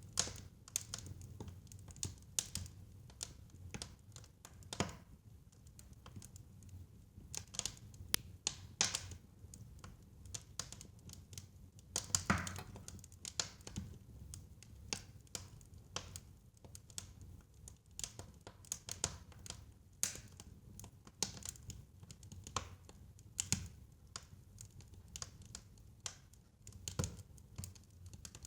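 Wood fire crackling in a fireplace: irregular sharp pops and snaps over a low, steady rumble of burning, with a louder pop about twelve seconds in.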